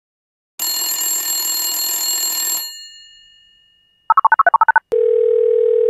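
A bell rings for about two seconds and rings out. After a pause comes a quick run of about ten touch-tone telephone dialing beeps, then a click and a steady telephone line tone.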